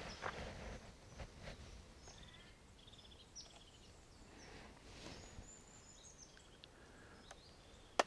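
Faint birdsong: scattered short chirps and quick trills over quiet outdoor background, with a single sharp click near the end.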